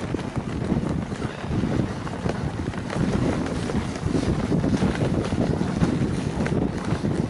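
Wind buffeting the microphone on a moving dog sled, over an uneven low rumble from the sled's travel across snow.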